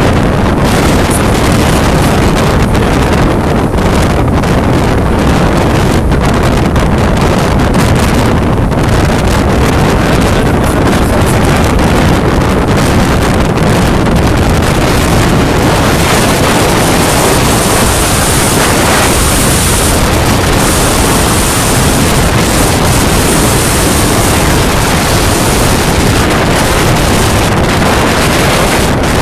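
Strong storm wind blowing steadily across the microphone, with rough sea surf underneath.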